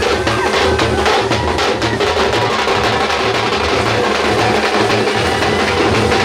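Loud, fast drumming with a steady repeating beat and dense sharp strikes, as at a fan celebration.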